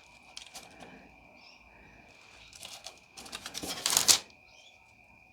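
Scalpel blade cutting and chipping away dried, hardened fondant: scattered small clicks and scrapes, thickening into a louder cluster about four seconds in.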